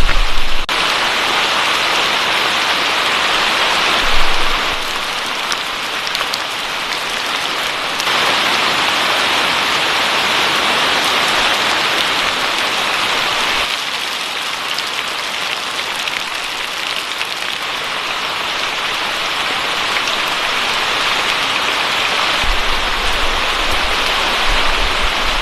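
Heavy rain pouring down, a steady hiss, with one short thump about four seconds in.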